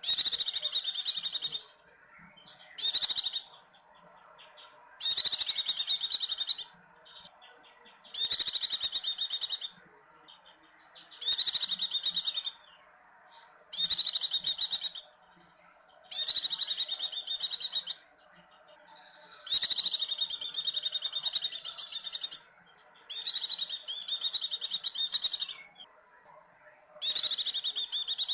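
Recorded bird or insect song of the kind used as masteran for a long-tailed shrike: a high, rapidly pulsed buzzy trill repeated in bursts of one to two seconds, about every three seconds, with silence between.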